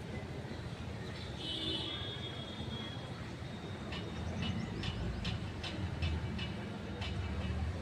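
A parrot's high call, then a quick run of short, sharp chirps about three a second, over a steady low rumble.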